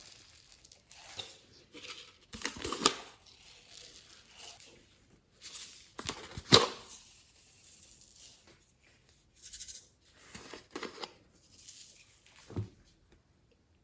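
Glitter slime being squished and stretched by hand, in irregular bursts of sticky crackling and squelching. The loudest burst comes about six and a half seconds in, and it goes quieter near the end.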